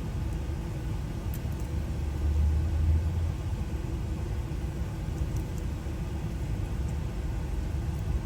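Low steady rumble, swelling for about a second between two and three seconds in.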